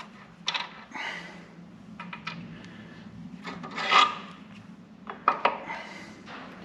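Metal parts of a Karrier K6 spare engine's bottom end being worked loose to get the crankshaft out: several sharp metallic knocks, the loudest about four seconds in, with scraping and rubbing between them.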